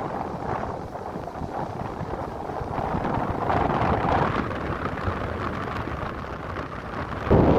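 Strong gale blowing across the microphone, a rumbling rush of wind that swells and eases in gusts, with a sudden harder gust near the end.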